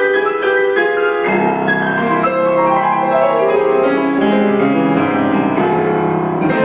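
Acoustic piano playing a classical piece: a run of quick notes in the middle and upper range, joined about a second in by fuller chords reaching down into the bass.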